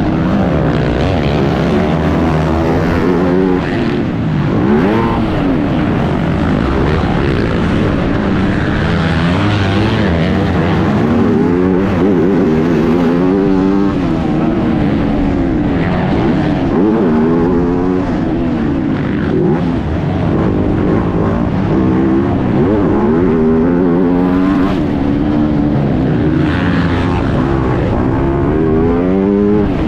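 Motocross bike engine under race load, its pitch climbing and dropping over and over as the throttle opens and closes and gears change.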